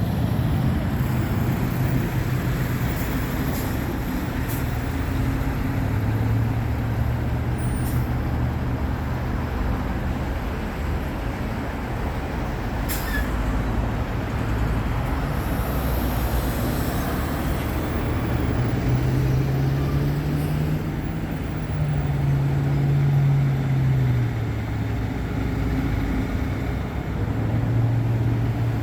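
Road traffic with trucks and cars running past: a steady low rumble, with a heavy engine drone that rises and falls about two-thirds of the way through.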